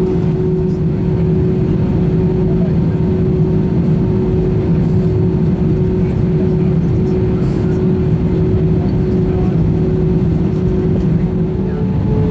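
Airbus A320 cabin noise on the ground before takeoff: the engines running with a steady low drone and a steady hum whose pitch steps up slightly near the end.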